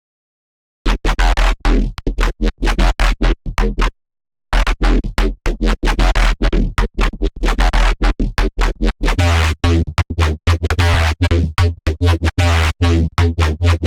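Wavetable synthesizer patch in Serum being auditioned: harsh, rapidly chopped dubstep-style notes over heavy sub-bass. It starts about a second in, breaks off briefly around four seconds in, then plays on denser, with the bass stepping lower near the middle.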